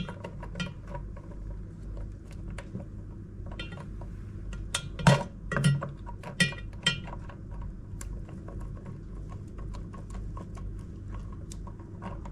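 Scattered metal clinks and knocks from hand tools and a socket working on a washing machine's motor mounting, at irregular intervals, with a few louder knocks around the middle.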